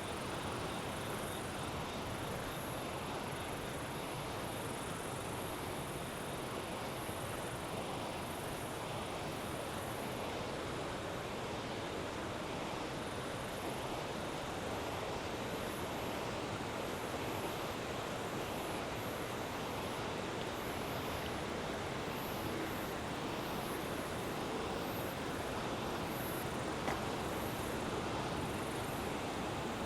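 Steady rush of river water flowing, with high-pitched insect chirps coming and going above it.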